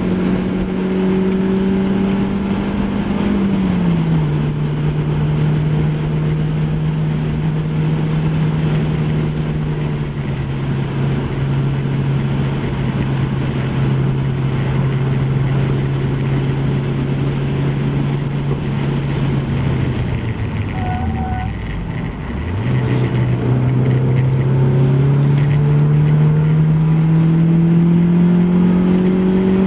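MGF Trophy 160 race car's 1.8-litre K-series four-cylinder engine heard from the bonnet with wind rush over it. It holds steady revs, drops a few seconds in and again about a third of the way through, dips sharply briefly around two-thirds through, then climbs steadily under acceleration.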